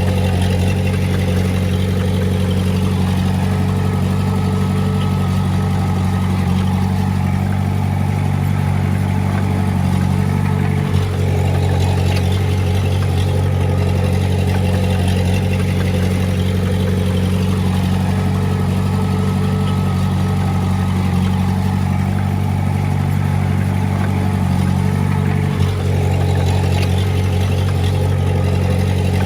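Komatsu D20A bulldozer's diesel engine running steadily, with a brief dip in level about eleven seconds in and again near the end.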